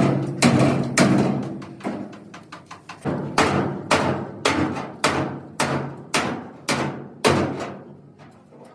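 Hammer blows on the steel of a damaged Hino truck body being beaten back into shape, each strike ringing on briefly. About a dozen strikes come at roughly two a second and stop near the end.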